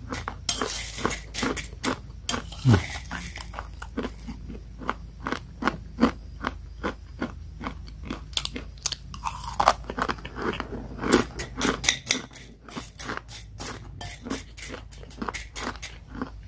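Close-up crunching and chewing of crispy, dry-fried Mie Sedaap Goreng instant noodles: many sharp crunches in quick succession.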